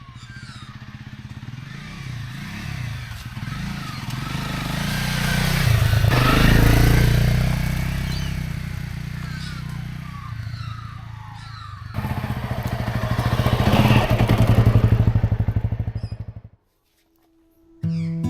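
Honda CRF Rally single-cylinder dirt bike engine running under way, its pitch and loudness building up and easing off twice. It cuts off suddenly near the end, and music starts just after.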